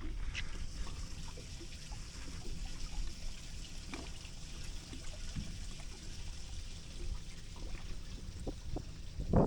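Gentle water lapping and trickling against a boat's hull, with faint scattered small clicks.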